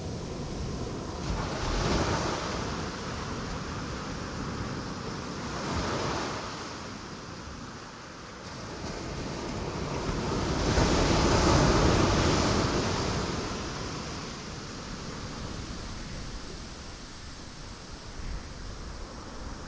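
Ocean waves breaking on rocks: a steady rushing of surf that swells with each break, the biggest surge about halfway through.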